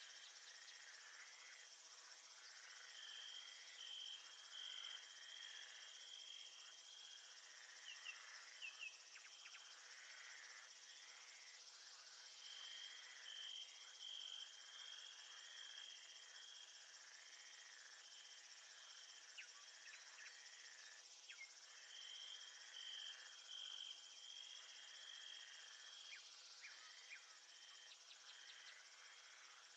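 Faint chirping of crickets and other insects: a steady high hiss of many insects, with a louder pulsing trill that comes and goes about every ten seconds and a few short chirps in between.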